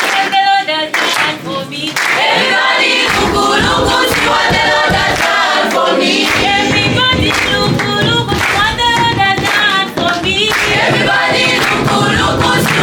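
A group of voices singing a worship song together. Backing music with a bass line comes in about two to three seconds in.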